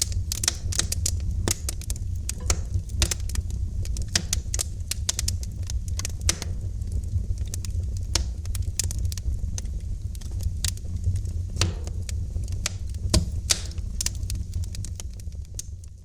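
Wood fire crackling in a fireplace: frequent irregular pops and snaps over a steady low rumble of the flames, fading down briefly near the end.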